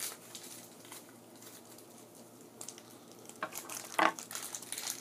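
Plastic toy packaging crinkling and tearing as it is opened by hand. It is faint at first, with louder crackles about three and a half and four seconds in.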